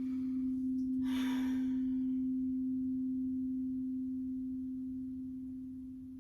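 The fourth crystal singing bowl ringing one steady, pure tone that slowly fades near the end. A short breath is heard about a second in.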